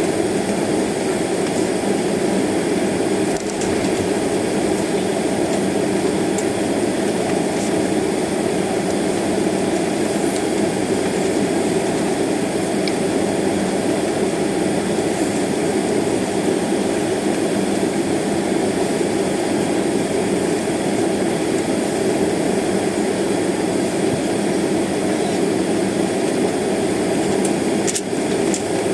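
Steady cabin noise inside a jet airliner taxiing toward the runway: an even engine-and-airframe hum with no change in level.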